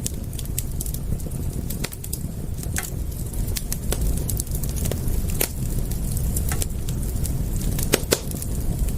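Wood fire crackling: irregular sharp pops and snaps, a few louder ones near the end, over a steady low rumble.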